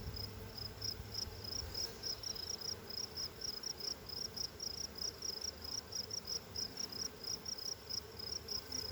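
Honey bees buzzing steadily around an open hive, under a cricket chirping evenly at about three chirps a second.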